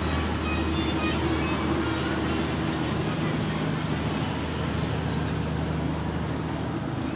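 Steady low engine hum over a constant outdoor din, with no breaks or sudden sounds.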